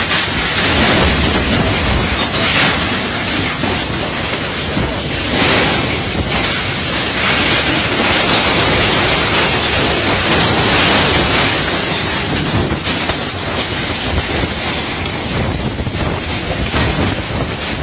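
Strong wind gusting: a loud rushing noise that swells and eases several times.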